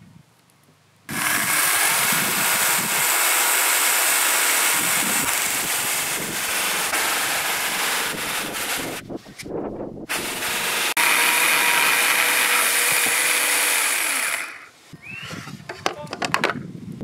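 Festool electric chainsaw running along a guide rail, cutting into an oak beam for a scarf joint. It starts about a second in, dips briefly past the middle and cuts again, then stops near the end, followed by a few light knocks.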